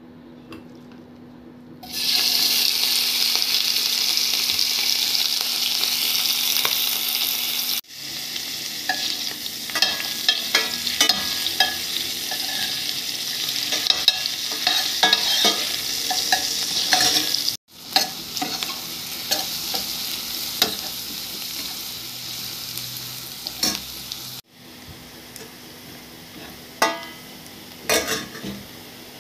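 Food frying in hot oil in a metal pan, a steady loud sizzle with the scrape and click of a metal spoon stirring. The sizzle starts about two seconds in and cuts off and restarts abruptly a few times.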